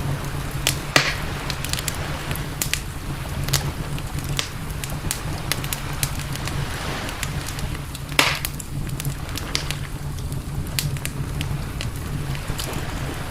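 Wood campfire crackling, with irregular sharp pops and snaps, two louder ones about a second in and near eight seconds in, over a steady low rumble.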